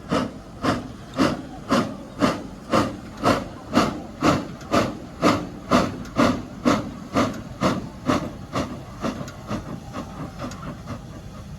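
Exhaust beats of a Soviet P36 steam locomotive pulling away, a steady chuff about twice a second. The chuffs fade after about eight seconds as the engine draws off.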